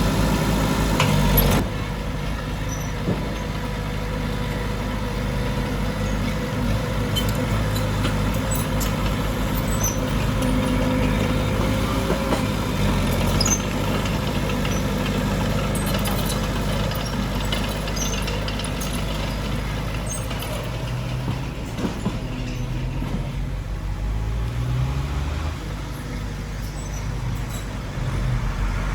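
Diesel engines of heavy earthmoving machinery running steadily, with scattered clanks and a few short rises in engine pitch near the end. It gets noticeably quieter about a second and a half in.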